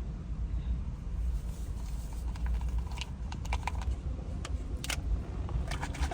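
Packaging of an electrolyte drink being opened and handled: a scatter of small clicks and crinkles starting about two seconds in and growing busier near the end, over a steady low rumble of the car's interior.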